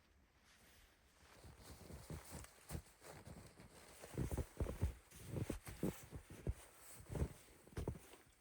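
A run of irregular soft thumps and crunches, starting about two seconds in and coming thickest in the middle, like handling or treading in snow.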